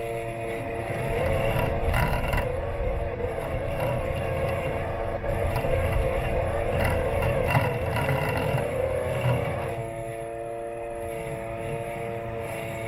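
Robot lawn mower's electric motors whining steadily in several tones. From about a second in until near ten seconds the sound grows louder and rougher, with a low rumble, a few knocks and a wavering pitch that dips briefly; then it settles back to a steady whine.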